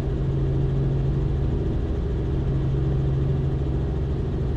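Robinson R44 helicopter's piston engine and rotors droning steadily in the cabin during a climb, with an even low hum.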